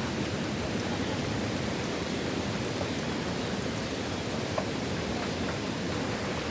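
Steady rain falling in the rain bands of Hurricane Beryl, an even hiss with a few faint drip ticks, and one sharp knock right at the end.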